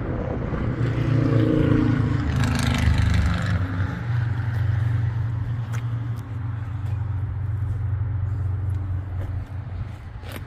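Corvette LS1 5.7-litre V8 running through dual Magnaflow exhaust: it rises in the first few seconds, then falls back to a steady low drone. A few sharp clicks come over it near the middle and at the end.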